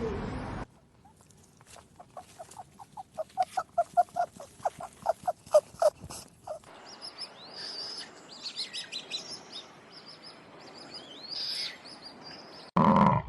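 Bird calls: a fast run of short, evenly pitched notes that speeds up, then high chirping and trilling song. A loud low sound starts abruptly just before the end.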